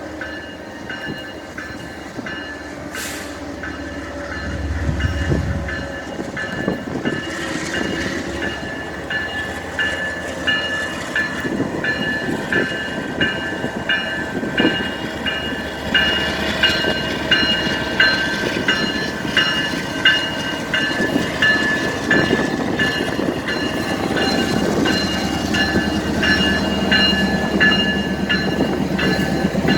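A BNSF grain train's cars rolling by on the rails, with wheels clicking regularly over rail joints and a steady high ringing tone from the wheels on the rails. The clicks become louder and more frequent from about halfway through.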